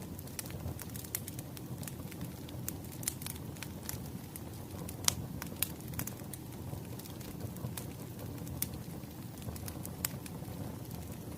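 Wood fire crackling and popping over a low, steady rumble, with scattered sharp snaps; the loudest pop comes about five seconds in.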